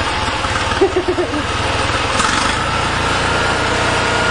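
Tractor engine running steadily, with a rapid low firing pulse. A short four-syllable voice sound comes about a second in, and a steady whine comes in from about two seconds in.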